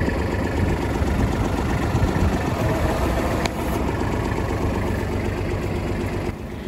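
Kubota L35 tractor's diesel engine running steadily at idle, with a single sharp click about halfway through. The engine sound drops away abruptly near the end.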